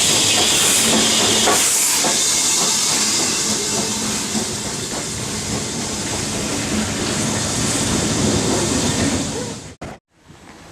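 Steam locomotive letting off steam: a loud, steady hiss over the rumble of the train, easing slightly after a couple of seconds and cutting off suddenly near the end.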